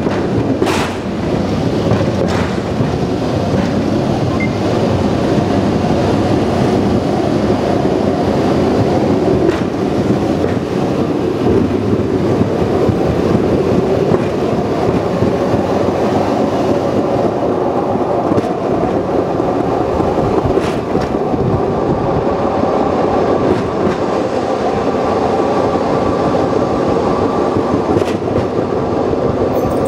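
Open-air trolley train running steadily along the rails, a continuous rolling rumble with a few sharp clacks here and there as the wheels cross rail joints.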